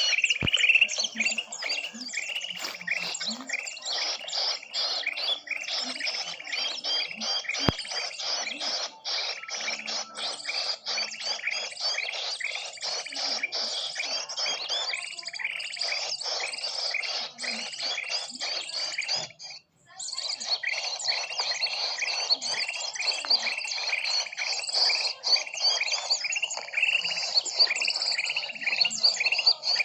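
Dense, fast chorus of many small birds chirping and twittering over one another: a mixed-species bird-lure (pikat) call recording. The sound cuts out for a moment about two-thirds of the way through, then the chorus resumes.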